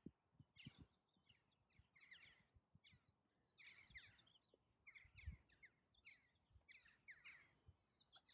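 Faint birdsong: many short, falling chirps repeating throughout, with a few soft low thumps, the clearest about five seconds in.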